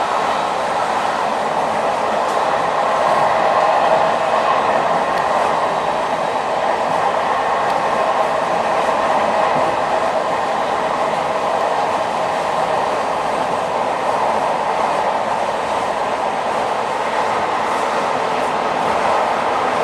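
A moving train running with a steady, continuous rail noise.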